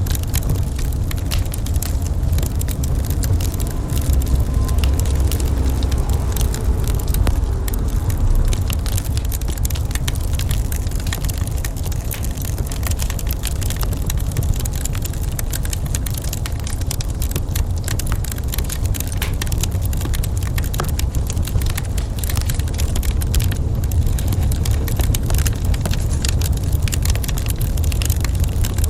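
Wood fire crackling in a fireplace: a dense, steady run of small pops and snaps over a constant low rumble.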